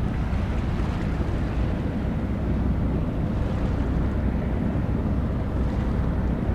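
Steady low rumble of wind buffeting the microphone, even throughout with no distinct events.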